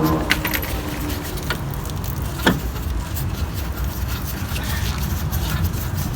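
Scattered metallic clinks and knocks, like hand tools and wheel hardware being handled, with one louder knock about two and a half seconds in.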